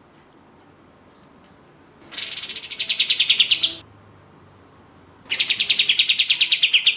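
Kapas tembak (katem) songbird giving its rapid trill twice, each a fast run of about a dozen notes a second that slides down in pitch and lasts under two seconds.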